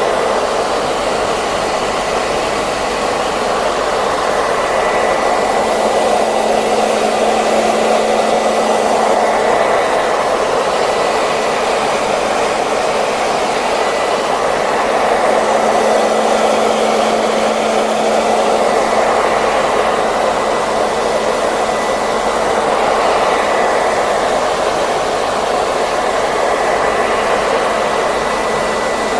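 Hair dryer running continuously: a steady rush of air with a faint high whine from the motor.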